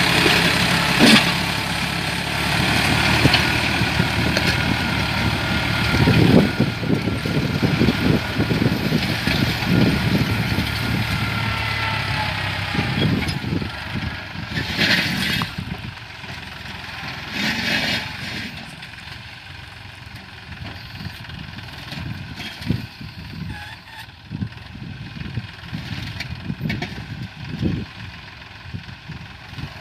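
New Holland tractor's 49-horsepower 2700 cc engine working steadily while pulling a six-disc plow, with scattered knocks, growing fainter over the first half as it moves away.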